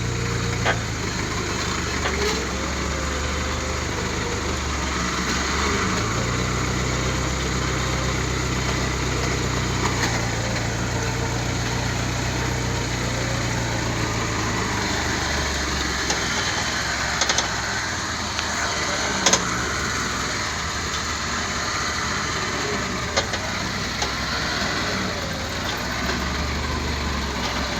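Truck engine running at low speed, its pitch stepping up and down several times as the revs change, with a few short knocks and rattles.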